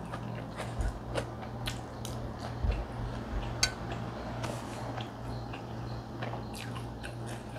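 Close mouth sounds of a person chewing a mouthful of fried rice: irregular soft clicks and smacks, over a steady low hum.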